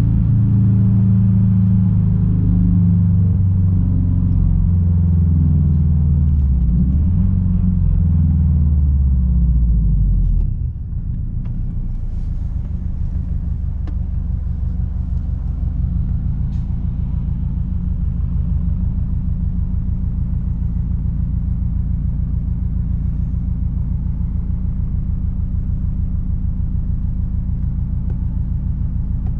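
Straight-piped 2006 Subaru WRX STI's turbocharged flat-four engine running in gear, its pitch easing down, then about ten seconds in it drops off throttle to a steady, lumpy idle rumble.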